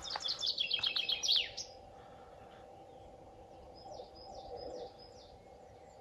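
A songbird sings a quick run of high notes that step down in pitch and end in a downward flourish, lasting about a second and a half. A few fainter, higher chirps follow about four seconds in, over a faint steady hum.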